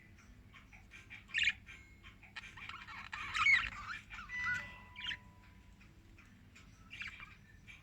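Lovebirds chirping and squawking in short, shrill calls, with a busy flurry of chatter from about two to four seconds in, the loudest part of it near the middle.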